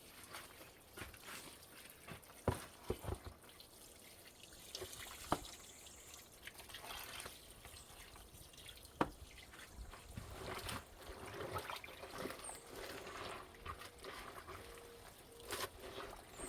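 Water trickling and dripping, with three sharp knocks spread through it.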